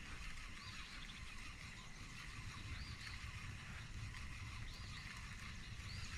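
Faint outdoor ambience: a steady low rumble with a handful of short, high chirps a second or two apart.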